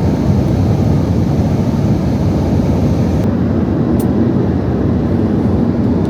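Wind buffeting the microphone in a snowstorm: a loud, steady low rumble with no let-up.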